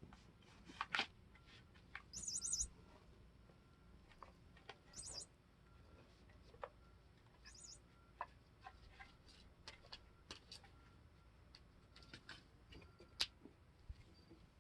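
Electronic chirping bird cat toy giving three short bursts of high, trilling tweets a few seconds apart, amid faint scattered taps and scratches.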